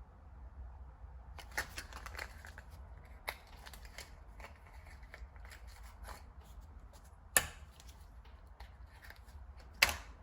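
Scattered light clicks, taps and scrapes of small metal parts or tools being handled, with two sharp clicks about seven and ten seconds in.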